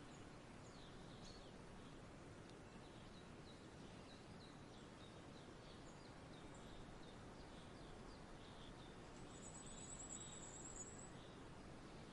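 Faint small birds chirping in short, scattered high notes over a steady low background hiss, with a rapid high trill lasting about two seconds near the end.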